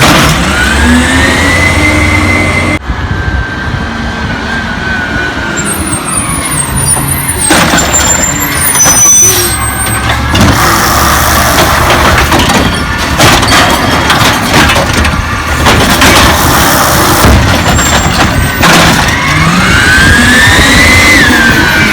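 Peterbilt 320 garbage truck's diesel engine running and revving up hard twice, once near the start and again near the end, with a run of knocks and clatter midway.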